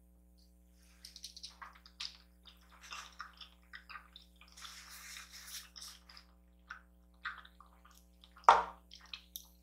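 Close-miked eating: wet, squishy chewing and mouth sounds as a person eats noodles and dumplings, with a longer slurping stretch about five seconds in and a louder short smack near the end.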